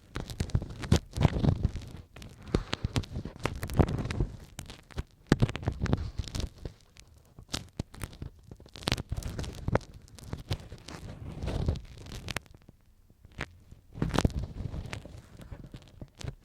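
Ear pick scraping and rubbing in the ear, close on the microphone: irregular crackling scratches over a muffled low rubbing, with short pauses about seven and thirteen seconds in.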